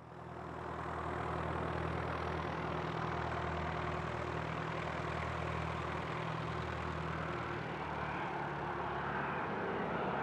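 Aircraft engine running with a steady noise and a low hum.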